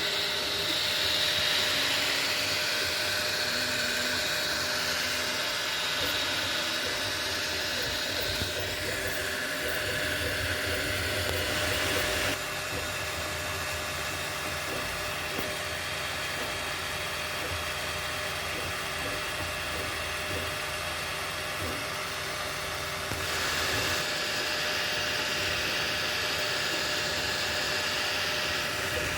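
Anycubic Kobra 3 3D printer running: a steady whir of cooling fans with a constant tone, and short stepper-motor tones that change pitch as the print head moves. The sound changes abruptly about twelve seconds in and again about twenty-three seconds in.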